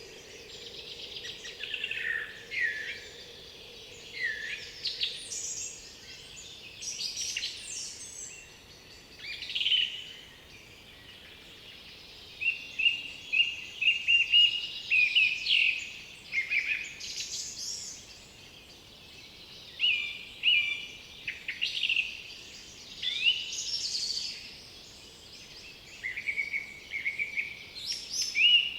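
Several woodland songbirds singing over one another, in varied short whistled and chirped phrases. About halfway through there is a run of quickly repeated notes.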